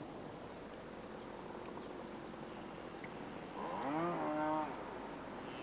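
A single cow moo about three and a half seconds in, lasting about a second, rising in pitch and then holding, over a steady faint hiss.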